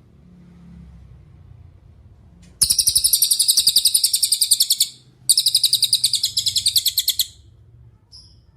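Cililin songbird singing two long, rapid, high-pitched trills of about two seconds each, followed by a single short chirp near the end.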